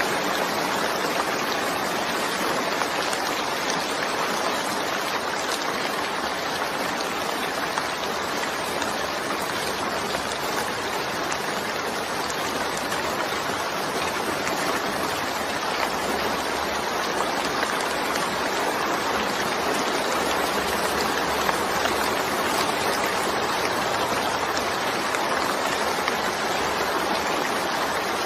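Steady rainstorm: an even, unbroken hiss of falling rain.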